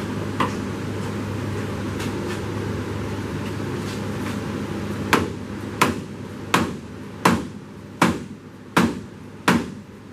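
Hammer blows, seven evenly spaced strikes about 0.7 seconds apart starting about halfway in, knocking at the sticking side of a 1931 Ford Model A engine to free it for hoisting out. A steady low hum runs underneath.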